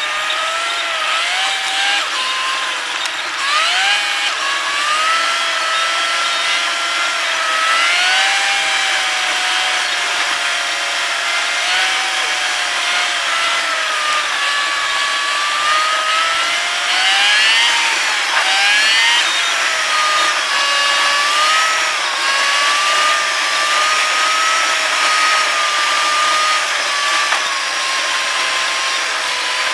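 Whine of a moving car's engine and drivetrain heard inside the cabin, rising in pitch as the car speeds up and dropping back several times.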